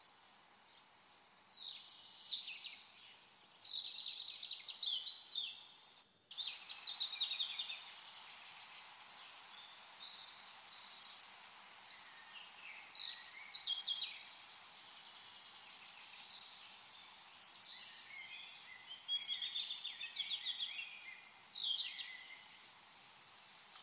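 Songbirds singing: bursts of quick chirps and falling whistled notes over a steady hiss, with a short break about six seconds in.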